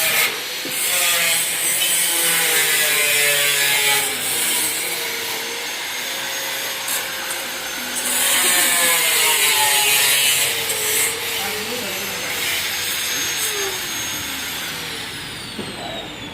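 A handheld power tool running under load, its whine wavering in pitch, with bursts of harsh grinding hiss. Near the end it spins down with a falling whine.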